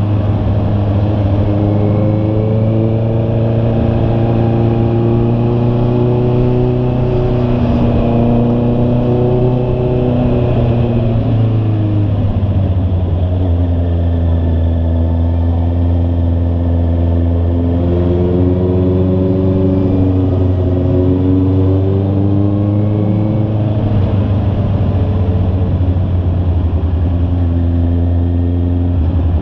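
Honda CB650R's inline-four engine running while riding, its pitch dropping about twelve seconds in and then rising and falling gently with the throttle.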